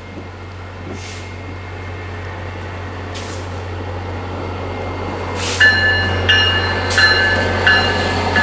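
MBTA commuter train approaching, its rumble growing steadily louder. From a little past halfway, a bell rings at an even pace, about one strike every 0.7 s.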